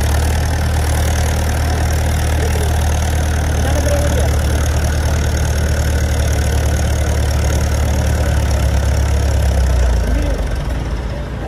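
Heavy diesel engine idling with a steady deep drone, which falls away about ten seconds in.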